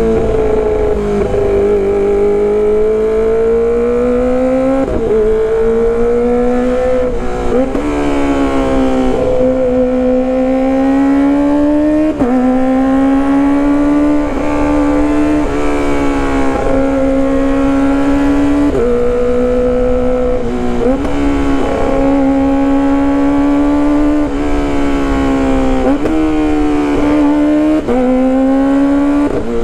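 Kawasaki ZX-25RR's 250 cc inline-four engine running at high revs through a loud exhaust while being ridden. The engine note swings up and down again and again, with abrupt breaks between the swells.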